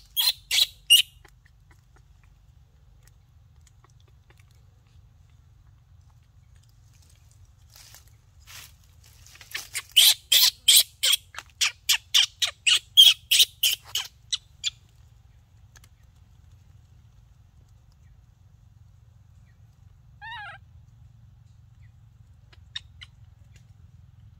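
A bird calling: a run of about fifteen sharp, high notes, about three a second, with a shorter run of four notes at the start and a single short falling call later on.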